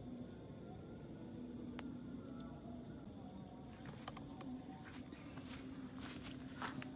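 Insects calling in the woods: short trains of rapid, evenly pulsed high chirps, then a steady high-pitched buzz that starts about three seconds in, with a few scattered clicks.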